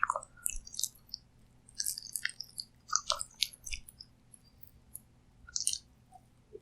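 Close-miked chewing of food: wet mouth clicks and smacks coming in several clusters with short pauses between.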